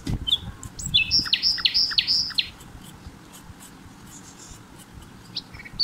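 A small bird chirping: a quick run of about five repeated high chirps about a second in, then a few more short calls near the end, over a low steady background noise.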